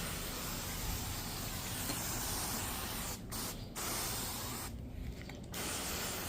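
Hand-pressurised pump-up sprayer misting pre-spray cleaning solution onto fabric upholstery: a steady hiss that stops briefly twice after about three seconds, then for most of a second near five seconds, as the trigger is let off, before spraying resumes.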